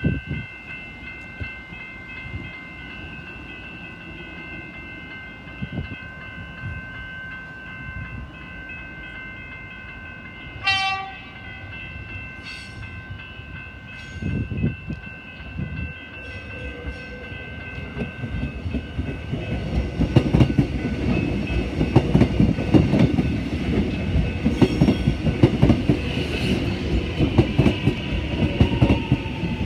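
Metro Trains Melbourne X'Trapolis 100 electric suburban train sounding its horn once, about eleven seconds in, as it approaches. It then rolls past close by, growing louder from about twenty seconds in, with its wheels clattering over the rail joints.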